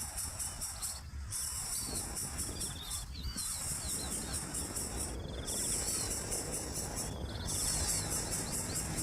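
Insects calling in a high, shrill chorus that swells and breaks off about every two seconds, with short chirps repeating at the same beat.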